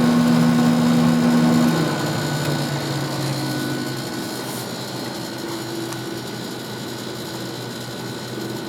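A 10,500 BTU Sharp window air conditioner running, its Matsushita rotary compressor and freshly oiled fan motor giving a steady hum. The loudest hum drops away about two seconds in, leaving a quieter, steady running sound.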